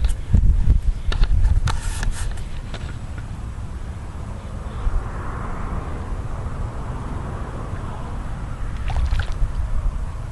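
Wind rumbling on the microphone from a kayak on open water, with paddle splashes and a few hollow knocks in the first few seconds and soft water swishing later on.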